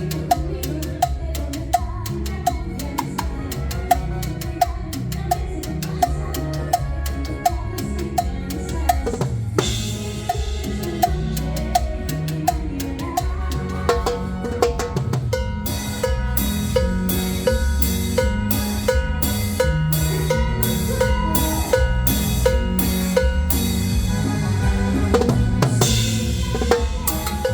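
Live band playing a cumbia instrumental during a sound check, with drum kit and percussion keeping a steady beat. The music becomes fuller and busier about halfway through.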